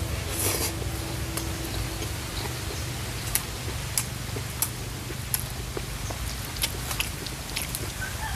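Close eating sounds from a person chewing with their mouth: a string of short, sharp clicks and smacks, one every half second to a second. These sit over a low, steady background rumble.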